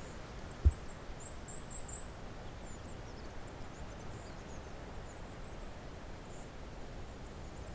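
Goldcrests calling in the pine canopy: a scatter of very high, thin chirps throughout, with a short twittering run about a second in. A single sharp low thump under a second in is the loudest sound.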